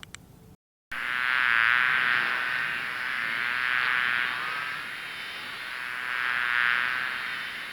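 Bees buzzing: a steady, dense drone that swells and fades several times.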